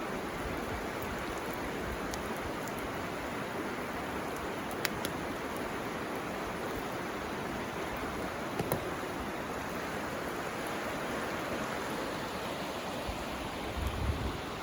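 A river flowing steadily, with a few sharp crackles from a bamboo fire about five and nine seconds in. Near the end a low buffeting sets in, like wind on the microphone.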